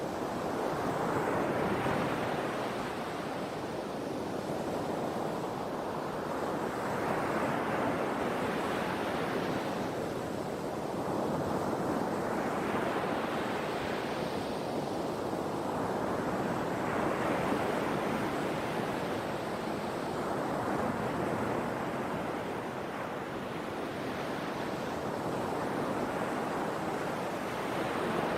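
Sea waves breaking and washing in, a fresh surge of surf swelling and fading every four or five seconds.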